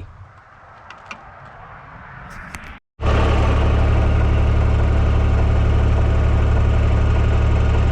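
A few faint clicks, then, from about three seconds in, the TYM T224 subcompact tractor's diesel engine idling steadily and loudly close by.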